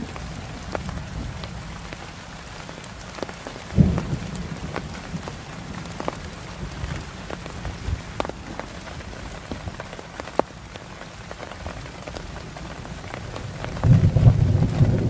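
Steady rain with many single drops ticking on a surface, and a sharp low thump about four seconds in. A low rumble of thunder sets in about a second before the end.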